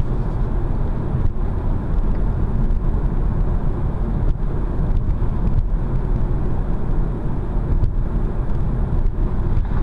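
Steady low rumble of tyre and engine noise inside a car's cabin while it drives along a road.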